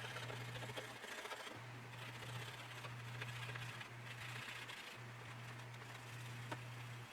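Faint rubbing and a few light clicks from handwork on a plastic scale model, over a steady low electrical hum.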